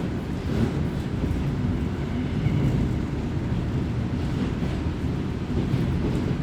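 Kominato Railway diesel railcar running, heard from inside the car: a steady, low rumble of engine and wheels on the rails.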